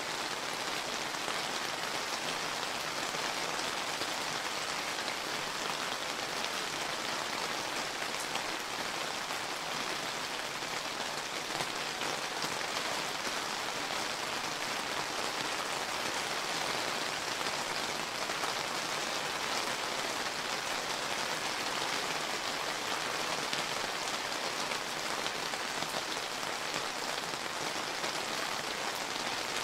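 Steady summer rain falling, an even patter of countless small drops hitting the ground.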